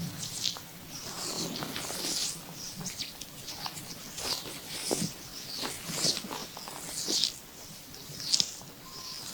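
Hands kneading an oiled stomach: irregular wet squishing of skin and short sticky clicks, several a second, with no steady tone.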